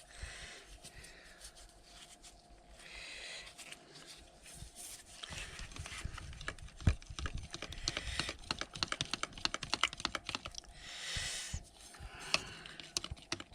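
Stirring stick clicking and scraping rapidly against a paint mixing cup as black basecoat with added metal flake is stirred. The clicks come thick and fast through the second half, with a few short rushes of noise in between.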